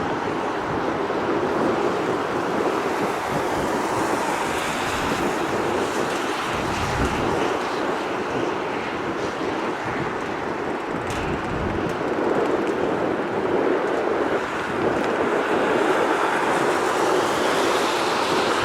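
Jet airliner engines running as a steady rushing noise that swells and grows brighter near the end, with wind buffeting the microphone now and then.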